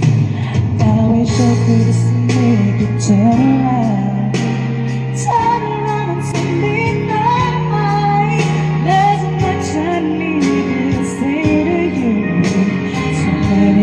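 Voice singing wordless runs and held notes in a pop ballad, over a backing track of sustained bass notes and light percussion.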